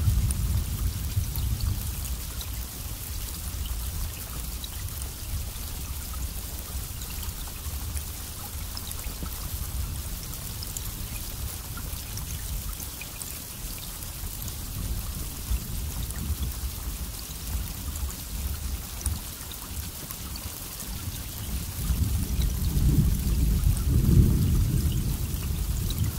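Steady rain hissing with scattered drop ticks under low rolling thunder. The rumble swells near the end.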